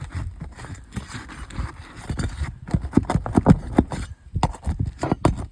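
Flat bar prying under asphalt roof shingles to work out the nails: an irregular run of knocks and scrapes, busiest past the middle.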